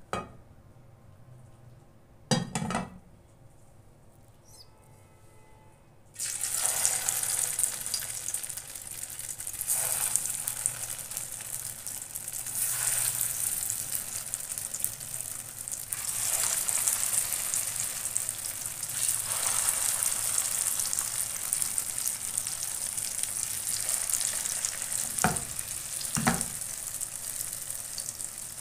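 Chicken shami kabab patties sizzling in hot oil in a frying pan. The sizzle starts suddenly about six seconds in and swells several times as more patties are laid in. There is a single knock about two seconds in and two knocks near the end.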